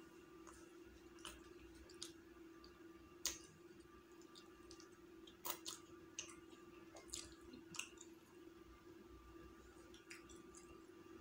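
Quiet mouth sounds of a man chewing chicken meat off a drumstick: scattered soft clicks and lip smacks, a few louder ones about three and five and a half seconds in, over a faint steady hum.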